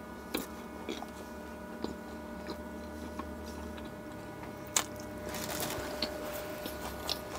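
Close-miked chewing of a mouthful of naan with the mouth closed, with a few small wet clicks and smacks scattered through it, over a faint steady hum.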